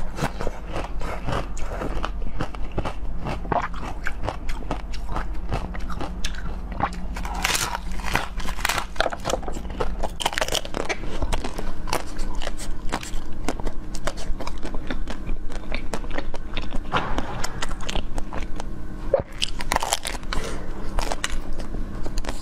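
Close-miked eating: a continuous run of bites and chewing with crisp crunching and crackling.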